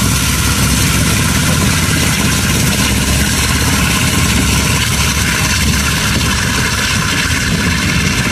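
Train coaches rolling past close by: a loud, steady rumble and rattle of steel wheels on the rails.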